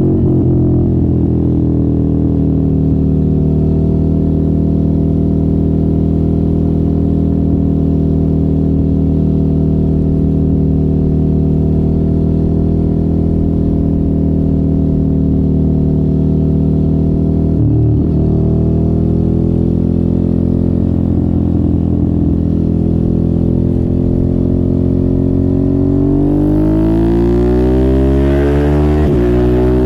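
Suzuki sport motorcycle engine with an aftermarket exhaust, running under way at a steady engine speed. There is a short break in the note about 18 seconds in. From about 26 seconds in it revs up, its pitch rising as it accelerates, with another brief break near the end.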